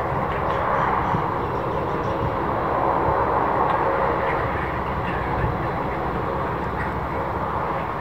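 Jet airliner engines running, a steady rush that swells slightly in the middle and eases off toward the end.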